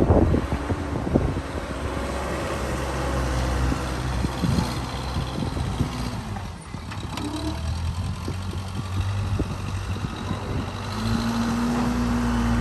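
Case 580C backhoe's engine running steadily, its sound dipping briefly about halfway through. A steady whine joins it near the end.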